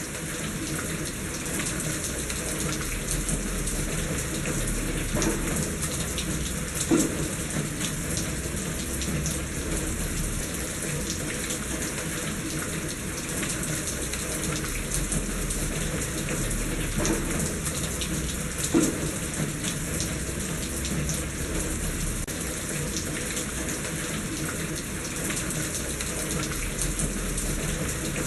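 Steady rain falling on a surface, a continuous even patter, with a few louder single drops striking about a quarter of the way in and again about two-thirds of the way in.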